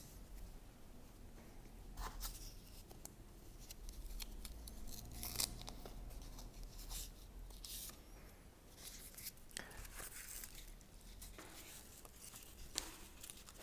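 Irregular small rustles and scratches of cord and corrugated cardboard being handled while a knot is tied in a leg cord.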